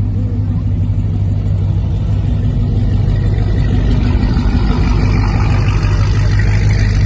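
Car engine running at low speed with a steady deep rumble; a higher whine rises about six seconds in.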